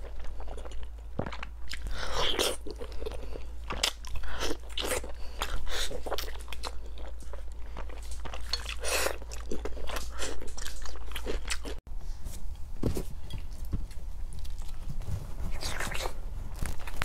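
Close-miked eating: a person bites into and chews fatty braised pork belly in irregular wet, crunchy bites. A brief gap about twelve seconds in is followed by more biting and chewing into a large glazed roasted piece of meat.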